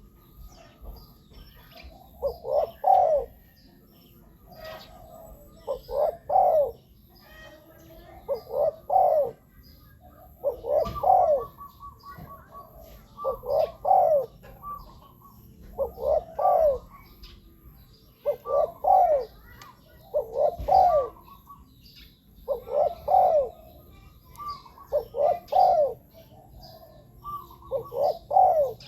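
Spotted dove cooing: a short phrase of a few low coos, repeated about every two to three seconds, the song used as a decoy call to lure wild doves.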